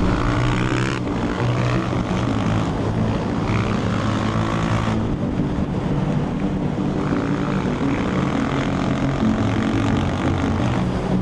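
Supermoto motorcycle engine running under way, its pitch rising and falling as the throttle opens and closes, with wind rushing over the onboard camera's microphone.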